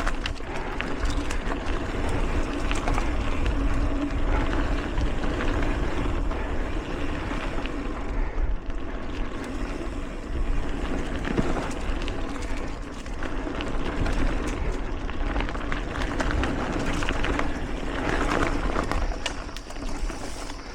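Mountain bike being ridden along dirt singletrack: steady wind rumble on the camera microphone, with rolling tyre noise and rattling from the bike.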